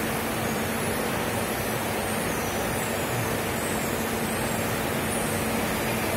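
CNC bed-type milling machine running steadily, a constant noisy hum with a low held tone under it.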